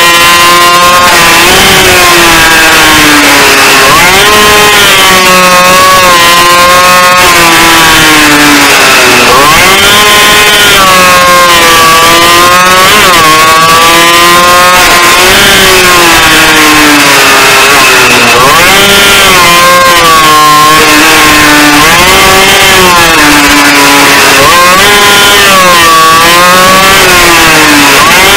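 Motorcycle engine heard onboard at speed, its pitch repeatedly climbing under throttle and dropping again through gear changes and braking into corners.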